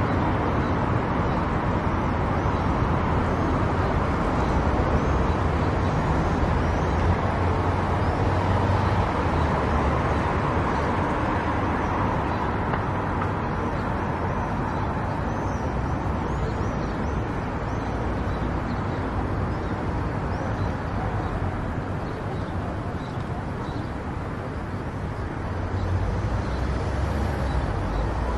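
Steady road noise of a car driving on a highway: tyre and engine rumble, a little louder near the end.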